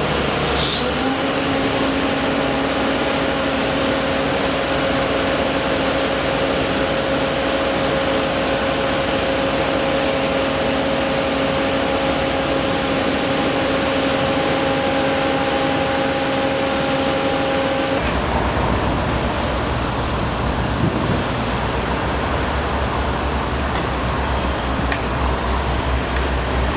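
Steady machinery and traffic noise with a steady hum that stops about two-thirds of the way through, after which a deeper rumble takes over.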